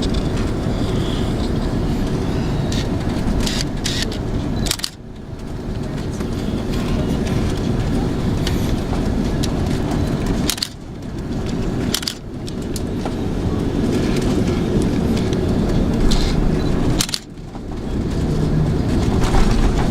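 Steady rumble and hiss of an Airbus A330's engines and airflow heard inside the passenger cabin. Several sharp knocks are each followed by a sudden brief dip in level, about 5, 10, 12 and 17 seconds in.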